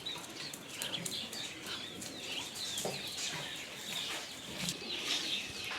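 Chickens and ducks feeding on scattered vegetable peels, with many short high chirps and peeps repeating throughout and occasional clucks.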